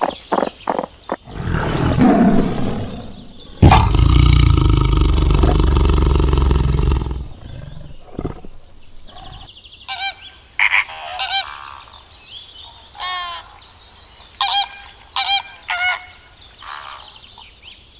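A run of animal calls: quick repeated croaks at the start, a long loud roar lasting about three seconds, then a series of short, sharp bird calls.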